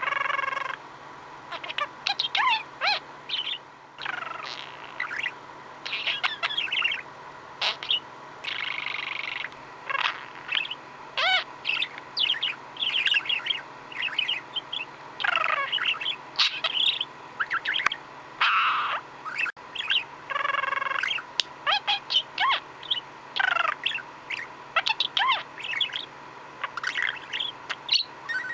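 Budgerigar chattering and warbling: a busy, irregular stream of short chirps, squeaks and gliding whistles.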